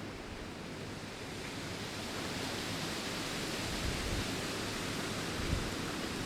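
Wind blowing through leaves with a steady rustle, swelling a little stronger about two seconds in, with a few brief low rumbles.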